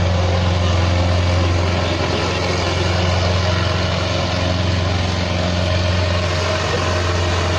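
Indo Farm 3055 tractor's diesel engine running steadily, a low even drone with no change in pitch.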